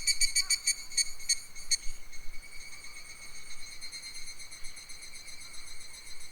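Insect song in a summer forest: a high, ringing call pulsing rapidly, which slows into a few spaced strokes about a second or two in and gives way to a fainter steady high buzz.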